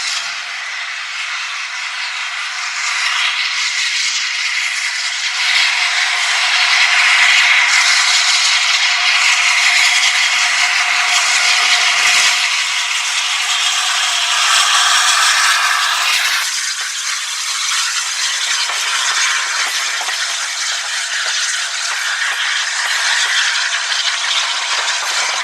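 A train running on the rails: a steady rattle and clatter of wheels and carriages, loudest in the middle stretch.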